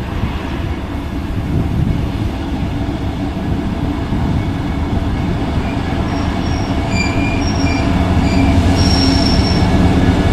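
Ex-Grindrod diesel locomotive hauling a train, its engine running steadily and getting louder. Short high-pitched wheel squeals sound several times in the second half, the last one longer.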